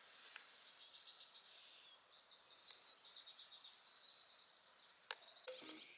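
Faint birdsong: small birds chirping in quick, high, repeated trills. About five seconds in there is a single sharp click, and soft background music begins just after it.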